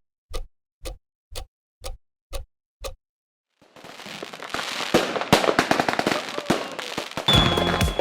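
Countdown clock ticking, six ticks about two a second, then after a short pause fireworks crackling and popping, swelling into dense bursts. Music comes in near the end.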